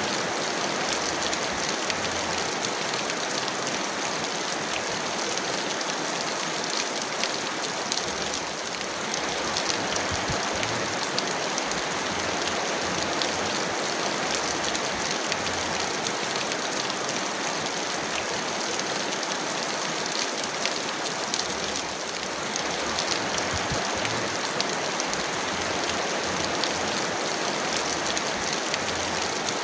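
Heavy rain falling steadily: a dense, even hiss with many fine drop taps, easing slightly for a moment twice.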